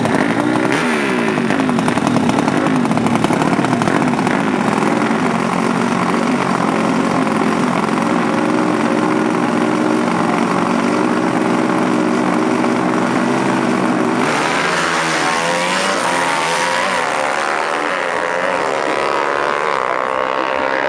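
Drag-racing motorcycle engines revving hard at high rpm, their pitch sweeping up and down. The sound changes abruptly about two-thirds of the way through, into a new set of rising and falling engine notes.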